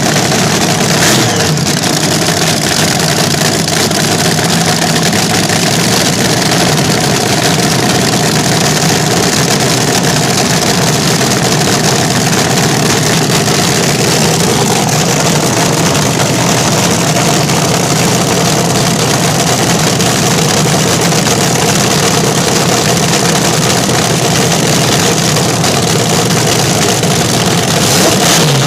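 Vintage front-engine slingshot dragster engine running loudly at a steady idle through open headers.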